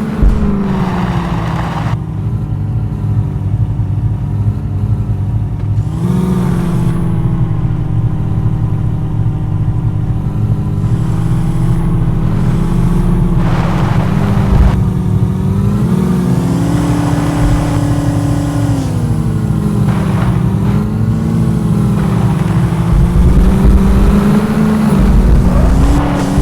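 Landi jeep engine running under load, its pitch rising about six seconds in and climbing again for a few seconds in the second half as it is revved, then dropping back.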